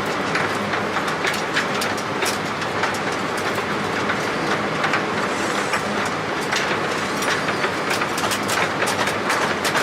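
Airliner cockpit noise on short final in gusty wind shear: a steady rush of airflow with frequent short rattles and knocks as the cockpit shakes in the turbulence.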